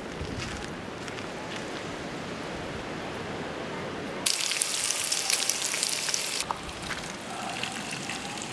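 Steady rain falling, with a louder, sharper hiss that starts suddenly about four seconds in and stops just as suddenly two seconds later.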